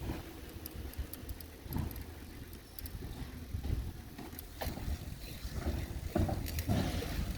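Low rumble and rattling of riding a bicycle with a helmet-mounted camera, with a few sharp knocks and clicks in the second half.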